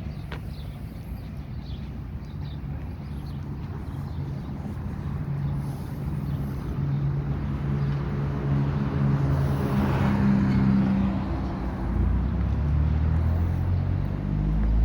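Street traffic: a vehicle engine running steadily, another vehicle passing with a swell of tyre and engine noise about ten seconds in, then a deeper engine rumble and an engine rising in pitch as it accelerates near the end.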